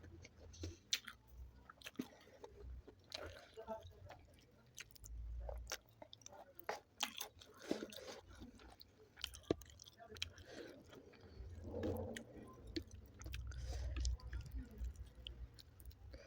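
Close-up chewing of spicy chicken curry with rice, with many small sharp clicks scattered irregularly through it.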